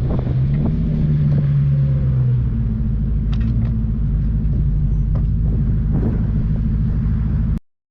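Engine of an off-road 4x4 running steadily, its low note shifting about two and a half seconds in, with a few faint clicks; the sound cuts off suddenly near the end.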